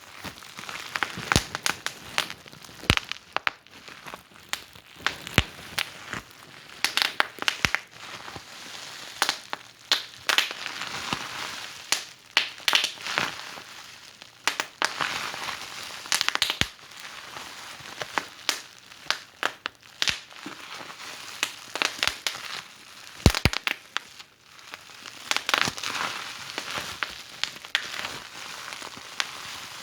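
Wood fire in a fireplace crackling, with irregular sharp pops and snaps over a soft hiss. The loudest pop comes about 23 seconds in.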